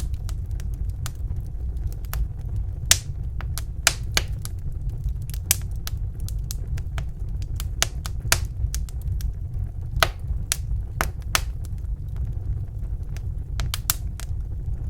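Wood fire crackling in a fireplace: irregular sharp snaps and pops, a few of them louder, over a steady low rumble.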